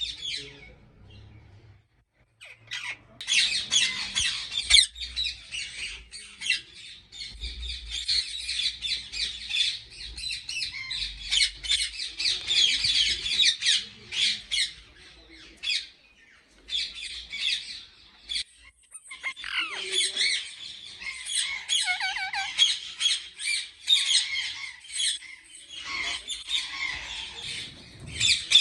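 A crowd of parakeets squawking together: harsh, rapid, overlapping calls that start about three seconds in and keep on with only brief lulls.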